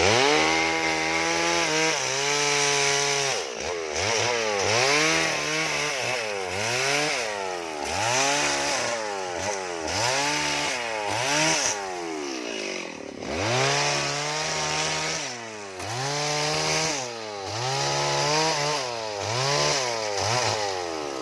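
Two-stroke chainsaw cutting into wood, revving up and down again and again in swells about a second long, with longer held runs at the start and about two-thirds of the way through.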